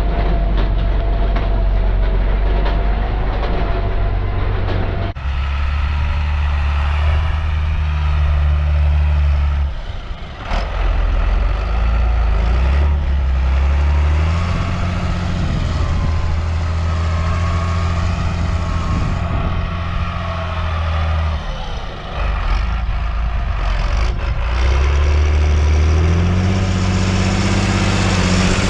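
John Deere 8400 tractor's six-cylinder diesel engine running while working a subsoiler. The sound changes abruptly about five seconds in, dips briefly twice, and the engine pitch steps up a notch twice, the second time near the end.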